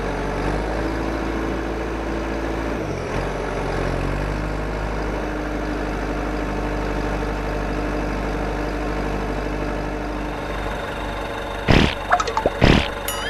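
Heavy vehicle engine running steadily, its pitch dipping and climbing again about three seconds in. Near the end come two short, loud bursts.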